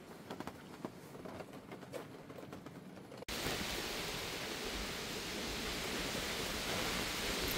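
Scattered light ticks over a faint hiss, then about three seconds in an abrupt cut to a loud, steady rushing noise.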